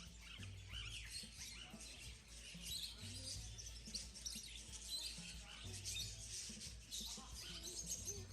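A flock of small aviary birds chirping and tweeting all at once, many short overlapping calls.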